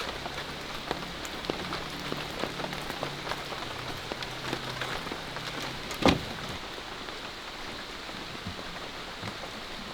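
Rain falling steadily, a dense pattering of drops. A faint low hum runs through the first half, and a single sharp knock stands out about six seconds in.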